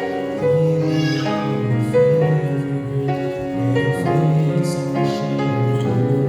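Music: piano playing a gospel song, possibly with the singers' voices, though no sung words were picked up.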